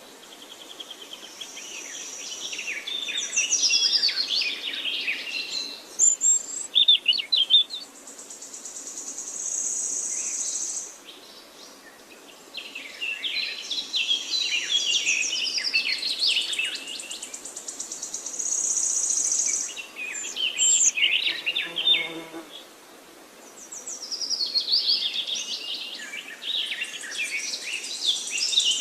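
Birds singing in repeated bursts of busy chirps and trills, with a high, thin, steady trill or buzz filling the gaps between bursts.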